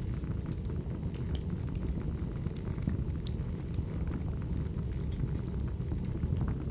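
Wood fire burning: a steady low rush of flames with scattered sharp crackles and pops from the burning wood.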